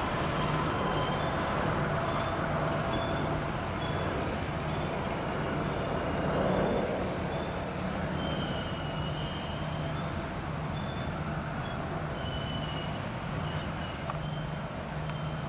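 Slow-moving Union Railroad slab train rolling past: a low diesel locomotive hum over steady rail and wheel noise, with short high-pitched squeaks recurring now and then.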